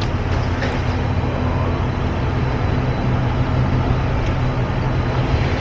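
Semi-truck diesel engine idling, a steady low hum that holds an even pitch.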